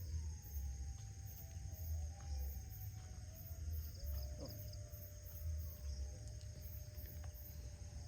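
Faint, long drawn-out wailing calls that fall slowly in pitch and then hold steady. Night insects chirp in a high pulsing pattern behind them, and a low rumble comes from the phone being handled.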